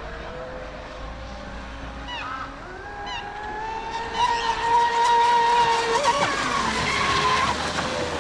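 Large electric RC racing boats running at speed, their motors giving a steady high whine that rises and grows louder about four seconds in as a boat comes closer, wavers in pitch around six seconds, then eases off near the end.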